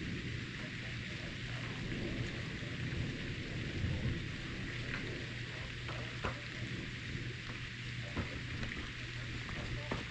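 Steady rain falling, with scattered sharp ticks of drops hitting close by.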